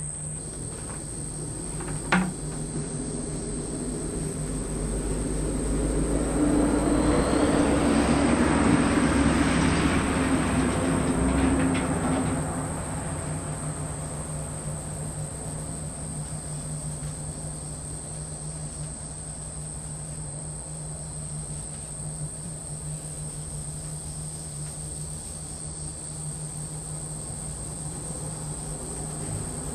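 A steady, high-pitched drone of insects, with the rumble of a passing vehicle that builds about six seconds in and fades away several seconds later. A single click comes about two seconds in.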